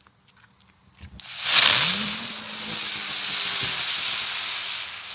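A ground bloom-flower firework catching about a second in and spraying sparks with a loud, steady hiss. Under the hiss a faint low tone rises and then holds.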